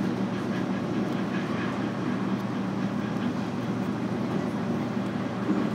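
Running noise inside a JR Kyushu 811 series electric train car under way between stations: a steady rumble of wheels on the rails with a low steady hum.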